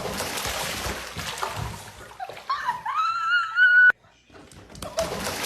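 Water splashing and sloshing, then a single high-pitched drawn-out cry that rises slightly and cuts off suddenly.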